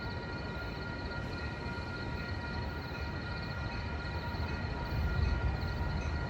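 Amtrak passenger train running by at a station: a low rumble that grows louder about five seconds in, with a steady high whine alongside.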